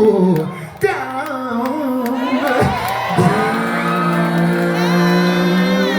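Gospel vocal group singing live in harmony with a band, with the voices settling about halfway through into one long held chord.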